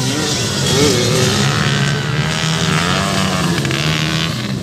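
Four-stroke motocross bikes racing, their engines revving with a pitch that rises and falls.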